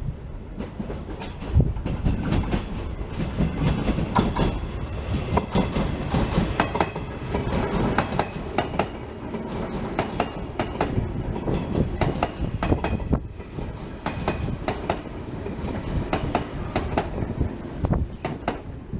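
115 series electric train running along the track, its wheels clacking over rail joints amid a continuous rumble.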